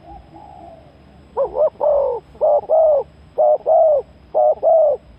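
Spotted dove cooing: one soft coo, then from about a second and a half in a run of loud paired coos, each note arching up and falling away.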